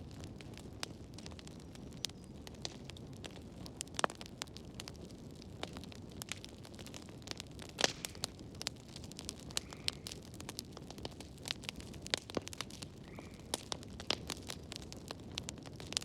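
Wood fire burning in a fireplace, with irregular crackles and sharp pops over a low, steady rush of flames; the loudest pops come about 4 and 8 seconds in.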